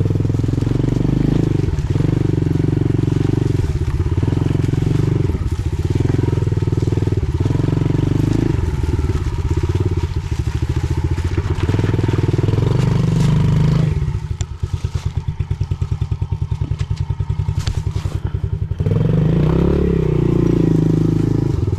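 Pit bike engine being ridden slowly, revving up and down in short throttle pulses. About two-thirds through it falls to a slow, low putter for several seconds, then picks up again.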